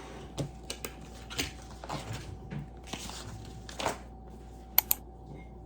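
Scattered light clicks and rustles of work at a desk over a steady low room hum, with two sharp, loud clicks in quick succession near the end.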